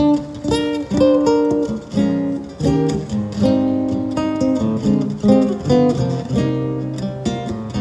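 Acoustic guitar playing a jazz solo, single plucked notes mixed with chords. The notes come in quick runs, each ringing briefly after it is struck.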